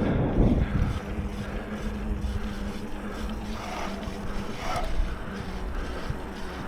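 Mountain bike rolling down a wet dirt trail: wind buffeting the microphone over a steady rumble and rattle from the tyres and bike, with a loud bump right at the start.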